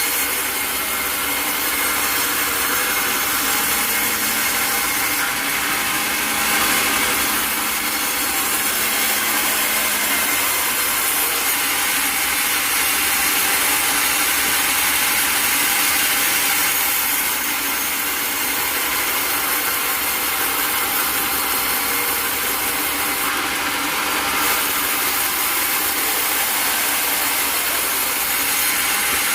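Sawmill saw cutting steadily through a log, a continuous loud grinding noise without pause.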